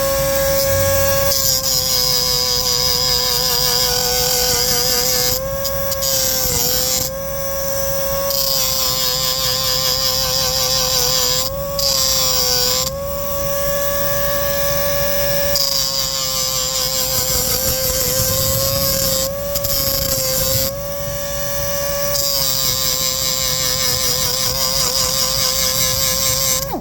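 Power grinder running at a steady pitch, grinding the cutting edges of hedge trimmer blades to sharpen them. The grinding hiss breaks off briefly several times as the tool comes off the blade, and the motor's pitch dips slightly each time it goes back on.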